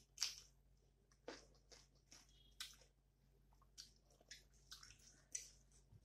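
Faint close-up eating sounds: wet chewing and mouth smacks of rice and curry eaten by hand, in short scattered bursts about once a second. The loudest is a bite just after the start, as a green chili goes into the mouth.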